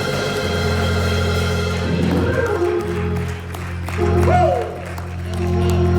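Church organ playing sustained chords, with a brief cry from a voice about four seconds in.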